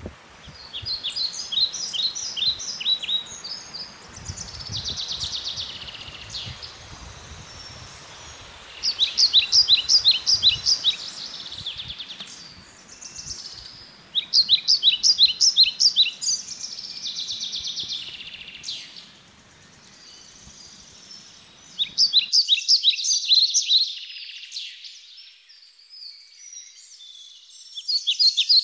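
A songbird singing short phrases of rapid, high repeated notes, one phrase every few seconds. Under it runs a low, uneven rumble of movement noise, which drops away abruptly about 22 seconds in while the singing goes on.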